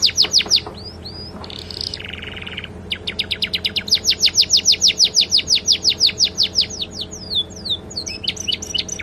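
Domestic canary singing in fast trills of repeated down-sweeping notes, with a short buzzy phrase about two seconds in, a long rapid trill after it, and a few slower slurred notes near the end. The song is filled with learned sikatan londo phrases. A faint steady low hum runs underneath.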